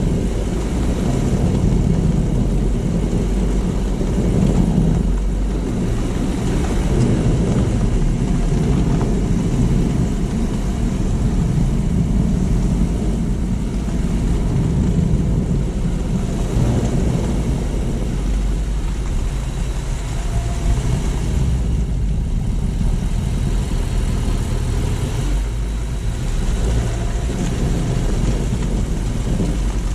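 Car driving through city streets: a steady low rumble of engine and tyre noise, swelling and easing slightly as the car speeds up and slows, picked up by a low-mounted GoPro on the car.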